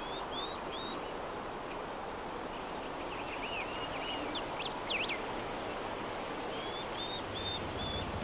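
Steady soft breeze ambience with birds chirping over it: a few short whistled notes near the start, quick up-and-down chirps in the middle, and a run of four short level whistles near the end.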